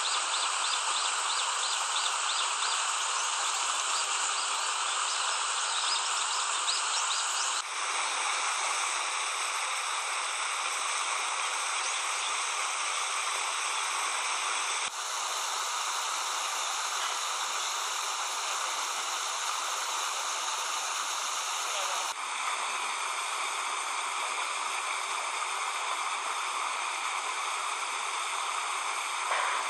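Steady rushing noise of running water, with faint insect or bird chirps over it in the first few seconds. The sound changes abruptly three times, at edit cuts.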